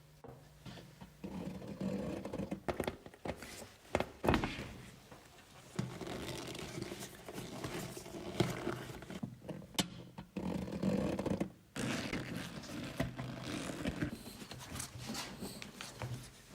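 Irregular scraping and knocking of hand work, with a sharp click a little before ten seconds.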